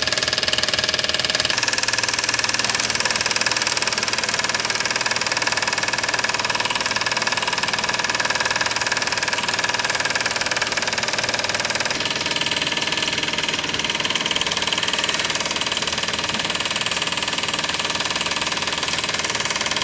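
Cyldon toy live-steam engines running steadily, a fast even chuffing over a continuous hiss of steam. The sound shifts in tone about a second and a half in and again about twelve seconds in.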